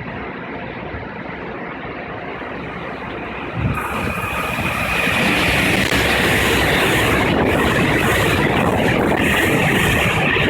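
Taiwan Railway express train passing through a station at speed: a steady rumble that turns sharply about four seconds in into a loud, even rushing roar of wheels and air.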